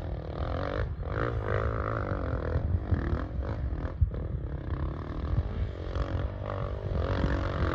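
Dirt bike engine revving, its pitch rising and falling repeatedly as the throttle is worked on the climb, over a steady low rumble.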